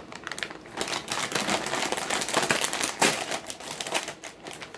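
Plastic-foil chip bag being handled and torn open, with dense irregular crinkling and crackling.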